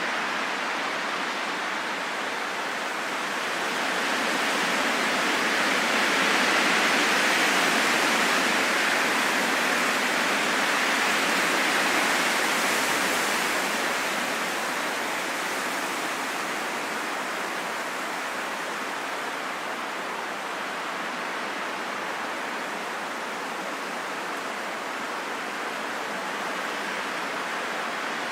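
Steady rain falling, an even hiss that swells louder from about four seconds in and eases back down after about fourteen seconds.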